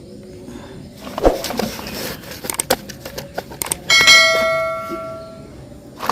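Scattered clicks and knocks of small objects being handled, then about four seconds in a single bright metallic ring, as of a small bell being struck, which dies away over about a second and a half.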